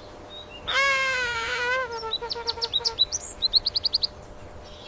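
Bird calling: a long wavering call lasting about a second, then a string of short high chirps, ending with a quick run of about seven high notes.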